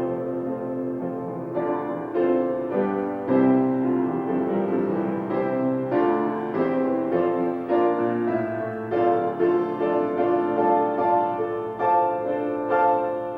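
Piano playing slow chords, new notes struck every half second or so and left to ring.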